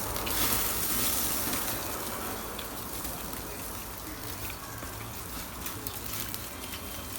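Meat sizzling on a charcoal barbecue grill: a steady hiss with faint crackles, loudest in the first couple of seconds and then easing off.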